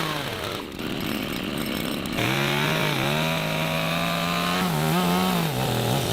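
Chainsaw running at high revs while cutting timber. For about the first two seconds it makes a rough, noisy sound; then the engine note holds steady, and about five seconds in it wavers and dips a few times as the chain loads up in the wood.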